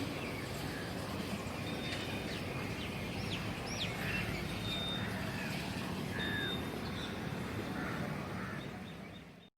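Outdoor ambience: small birds chirping in short rising and falling calls over a steady low background hum, with brief high whistle-like tones recurring every second or two; it fades out near the end.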